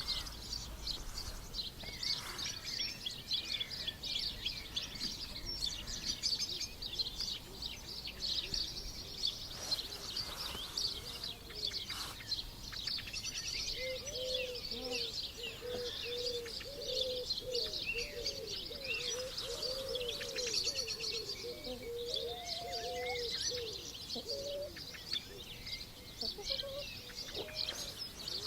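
Many small birds chirping and twittering together in a steady chorus. From about halfway through, a lower warbling call of quick rising-and-falling notes joins in for around ten seconds.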